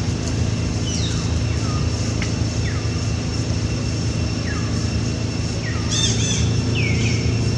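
Birds calling outdoors: single thin whistles that fall sharply in pitch, repeated about every second and a half, with a quick burst of chirps about six seconds in. Under them runs a steady low rumble and hum.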